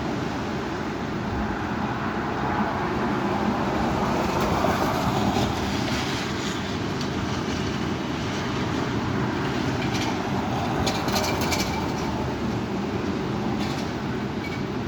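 Heavy thunderstorm wind rushing steadily, swelling in a gust a few seconds in, with a few sharp crackles about ten seconds in and again near the end.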